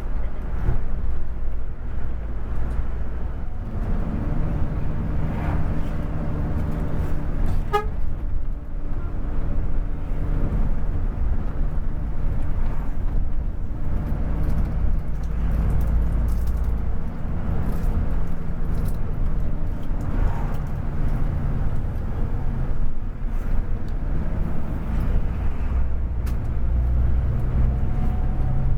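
Scania K410 coach's engine running under way, a steady low drone whose pitch steps up and down as the revs change, with a brief pitched toot about eight seconds in.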